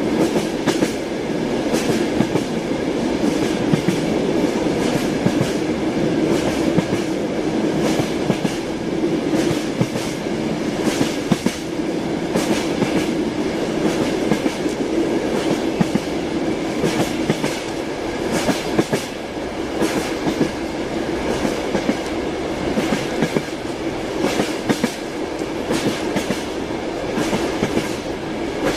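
Train wheels rolling on the rails, a steady rumble with a running clickety-clack of short knocks.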